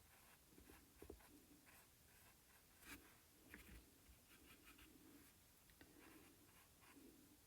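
Faint strokes of a paintbrush laying acrylic paint onto the painting surface, short soft brushing sounds repeating steadily, with a couple of light taps about a second and three seconds in.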